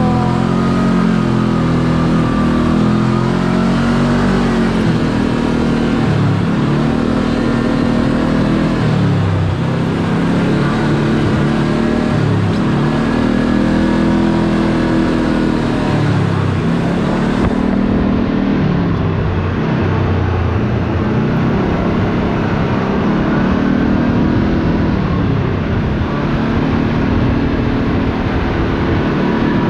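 Side-by-side UTV engine running under the riders, its pitch rising and falling again and again every few seconds as the driver works the throttle along a winding road, over steady road and tyre noise.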